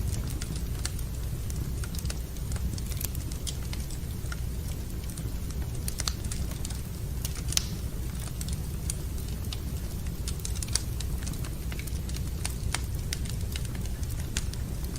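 Wood fire burning in a fireplace, crackling with irregular small pops over a steady low rumble, with two louder snaps partway through.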